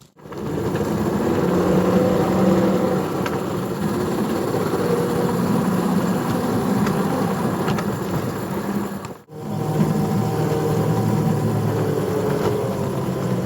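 Small engine running steadily, with a brief break about nine seconds in.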